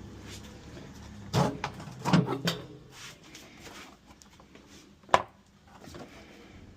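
A few loud knocks and clunks in quick succession, then a single sharp click about five seconds in.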